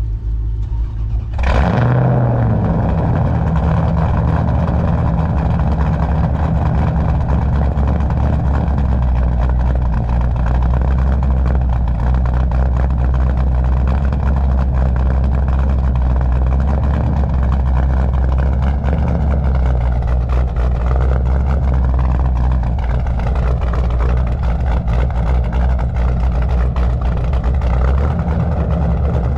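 C4 Corvette's 383 stroker small-block V8 firing up about a second in, then idling with a lopey cam chop through a loud exhaust.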